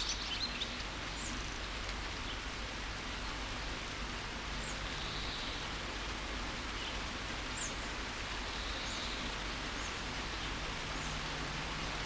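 Steady rain falling, with a few faint, short, high bird chirps scattered through it; a louder patch of chirping dies away in the first second.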